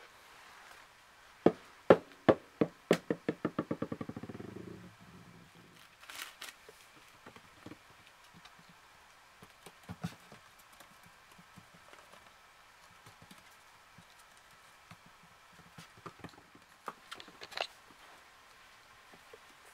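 A hard object hits a hard surface and bounces, with impacts coming faster and faster as they fade, then rattles to rest with a ringing wobble after about three seconds. A few scattered light knocks follow, with a small cluster near the end.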